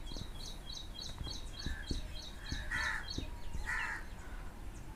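Birds calling: a small bird chirping steadily at about three short high chirps a second, with two louder, harsher calls in the middle.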